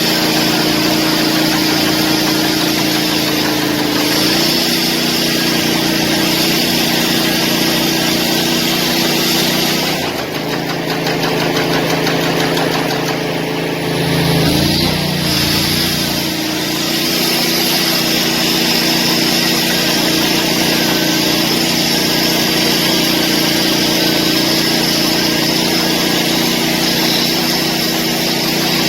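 Engine of construction machinery running steadily with a constant note. About ten seconds in the note shifts and wavers as if under changing load, then settles back to a steady run by about sixteen seconds.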